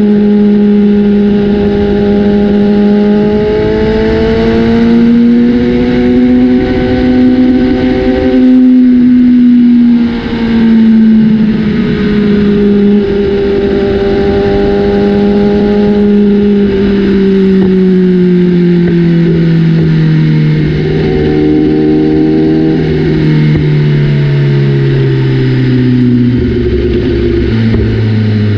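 BMW S1000RR inline-four sport bike engine running through an Austin Racing aftermarket exhaust while riding. The engine note holds steady and climbs slightly, breaks briefly about ten seconds in, then falls steadily in pitch over the last third as the engine slows.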